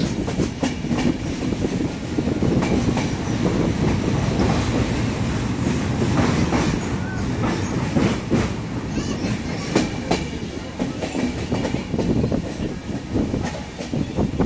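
Passenger train running along the track: a steady rumble with irregular sharp clicks of the wheels passing over rail joints.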